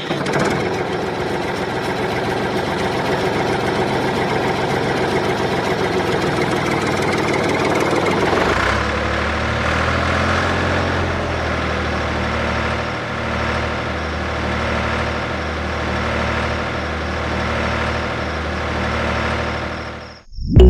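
Engine of a miniature rice threshing machine running steadily. About eight and a half seconds in, the sound changes to a deeper, steadier drone with a few brief dips.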